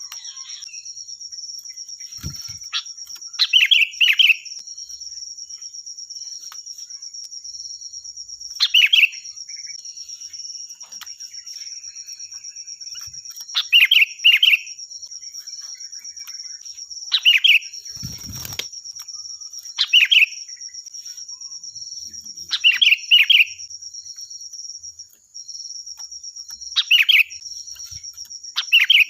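Sooty-headed bulbul singing loud, clear short phrases, one or two at a time every few seconds, over a steady high insect trill. A single dull thump comes about two-thirds of the way through.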